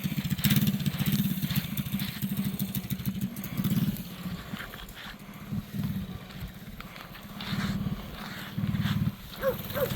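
Mini bike's small engine running, revved up and falling back toward idle several times.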